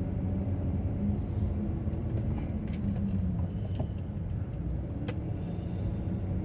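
Truck engine and road rumble heard from inside the cab: a steady low drone, with a couple of small clicks or knocks in the middle.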